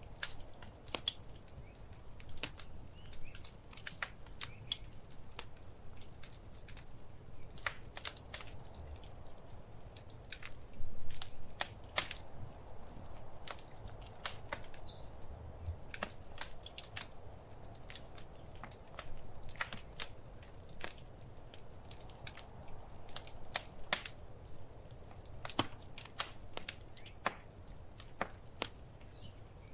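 Wood fire crackling in a fireplace: irregular sharp pops and snaps over a steady low rumble of the flames, with a louder burst of crackles about eleven seconds in.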